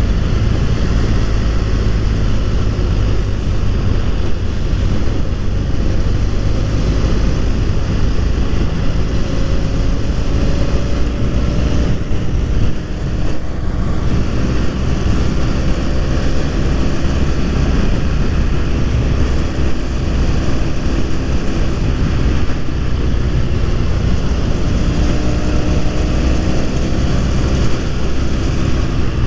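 BMW F 800 R's parallel-twin engine running on the road under heavy wind buffeting on the microphone. The engine pitch climbs slowly near the end as the bike speeds up.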